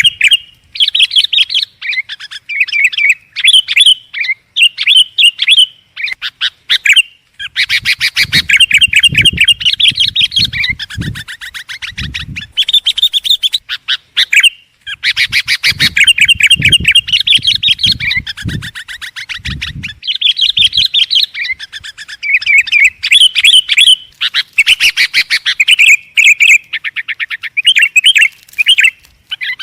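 Sooty-headed bulbul (kutilang) singing vigorously, loud fast runs of chirping and chattering notes, a dense, continuous song of the kind played back to lure other bulbuls. A few low muffled thumps sound in the middle.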